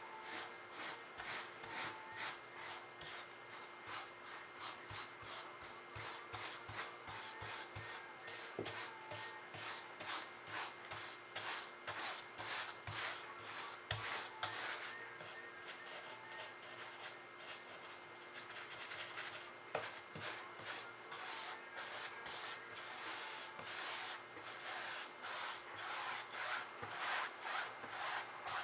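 Paintbrush rubbing and scrubbing on the painting surface in quick, repeated short strokes.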